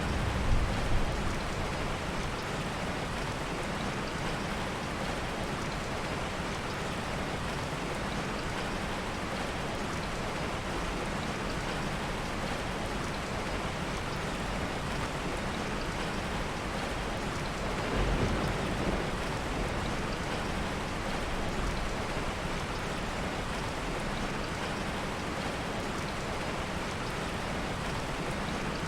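Steady heavy rain, with low rumbles of soft thunder in the first second and again about eighteen seconds in.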